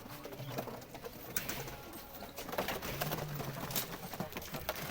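Domestic pigeons cooing, low coos about twice, with scattered clicks and rustles.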